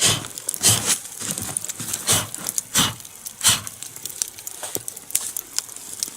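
Burning logs of a two-log nodya fire crackling, with irregular sharp pops, the loudest coming about every half second to a second.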